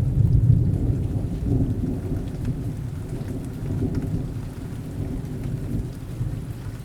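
Rain falling, with a low rumble of thunder that is loudest in the first second and slowly dies away.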